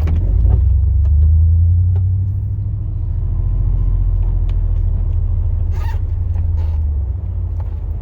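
The 2002 Chevrolet Silverado plow truck's 8.1-litre big-block V8 running with a low, steady rumble, heard from inside the cab. It swells about a second in, eases off, and dips near the end, with a few light knocks about six seconds in.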